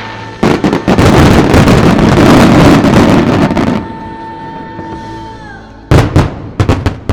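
Fireworks finale: from about half a second in, a dense, rapid barrage of bursts and crackles for about three seconds, then several separate loud bangs near the end, over a held note of the show's music that fades out.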